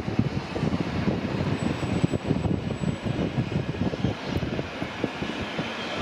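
Loud, uneven low rumble of a train running through close by, starting suddenly.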